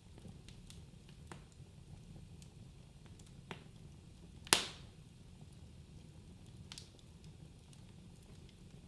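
Wood fire crackling in a fireplace: a low, steady rumble of flames with scattered small crackles and one loud, sharp pop about halfway through.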